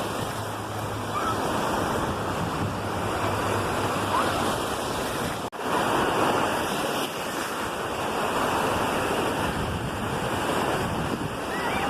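Ocean surf washing steadily on the beach, with wind buffeting the microphone. It drops out for an instant about halfway through.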